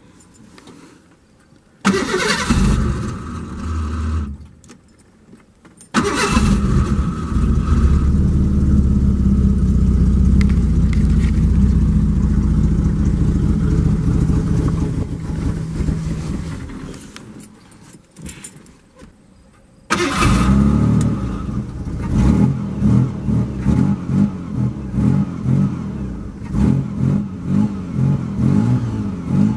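Ford Bronco II being started on freshly added fuel. A short try about two seconds in, then the engine catches and runs steadily for about ten seconds before dying away. About twenty seconds in it starts again and runs with an uneven, pulsing note.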